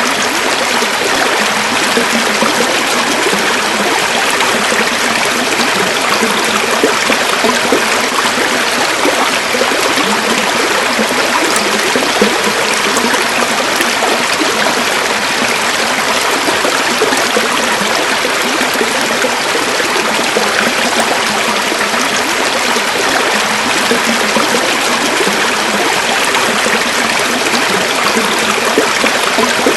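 A river flowing steadily, water rushing and babbling over rocks at an even level throughout.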